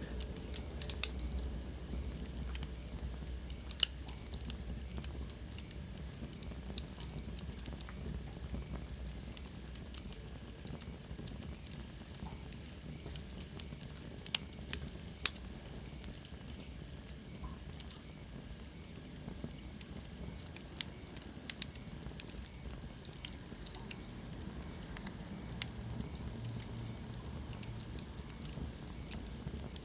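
Wood fire crackling in a fireplace, with irregular sharp pops and snaps over a low, steady rumble of burning. A faint high whistle slides down in pitch about halfway through.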